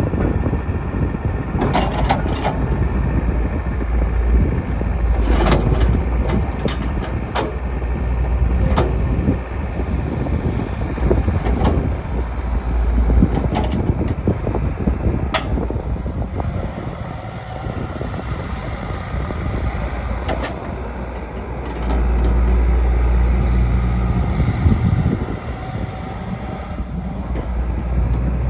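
Caterpillar 312B L hydraulic track excavator digging: its diesel engine runs steadily under hydraulic load, with short knocks and scrapes from the bucket now and then, and the engine pulls harder for a few seconds late on.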